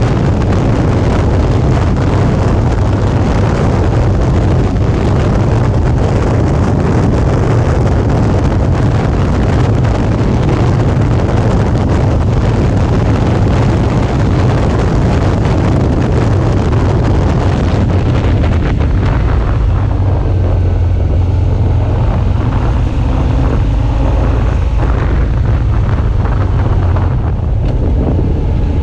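Wind rushing over the microphone with the Suzuki V-Strom 650's V-twin engine running underneath while riding at speed. About two-thirds of the way through the wind noise drops off as the bike slows, leaving the engine's low rumble clearer.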